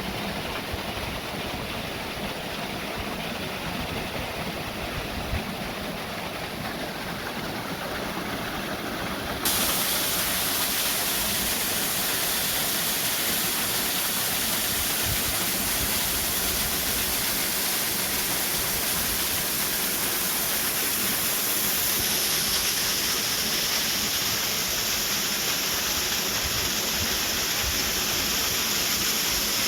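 Rushing water: a steady noise that jumps abruptly louder and brighter about nine and a half seconds in and shifts again later on.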